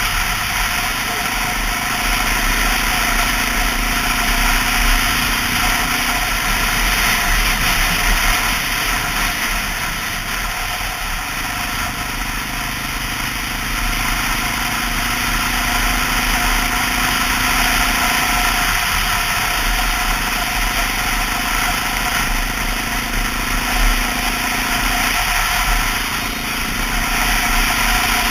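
Honda XR650L's single-cylinder four-stroke engine running steadily under way, over a continuous rushing noise. The engine note shifts to a new pitch several times as the throttle changes.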